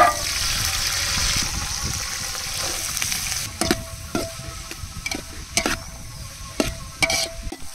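Peeled garlic cloves dropped into hot oil in a large metal pot over a wood fire, sizzling hard at first. From about three and a half seconds in, a perforated steel ladle scrapes and knocks against the pot as chopped small onions are stirred and fried, the pot ringing with each knock.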